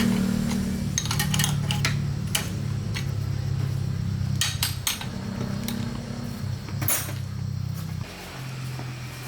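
Metal parts and tools clinking and knocking against each other in irregular short strikes, over low sustained background tones.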